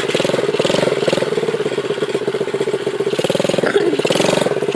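Dirt bike engine running close up while being ridden, its pitch rising and falling several times with the throttle.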